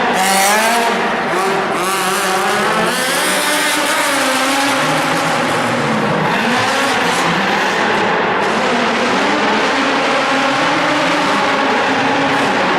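Drift car's engine revving up and down as it slides, with tyres squealing against the floor. The revs change repeatedly, most sharply over the first few seconds.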